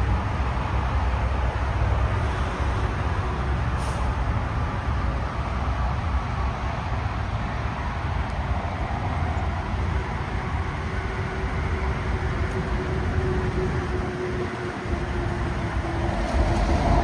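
Steady low rumble of a vehicle running, with a faint steady tone through the middle and a brief click about four seconds in.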